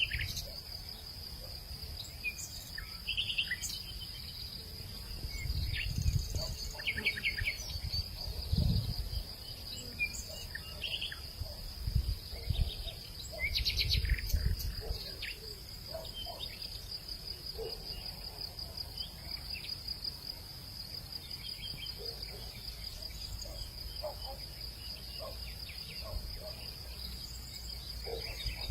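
A steady, high, rapidly pulsing insect trill, with scattered short bird chirps over it. Low gusts of wind rumble on the microphone several times in the first half.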